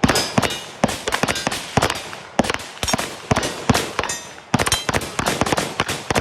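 Rapid gunfire from several guns on a shooting range line: sharp, overlapping shots, about three to five a second in an irregular string.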